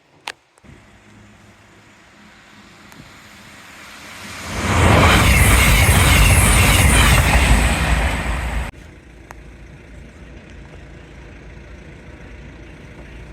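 A train passing at speed over the level crossing: a rush of wheel and track noise with a deep rumble that swells over a few seconds, stays loud for about four seconds, then cuts off suddenly to a steady background hum.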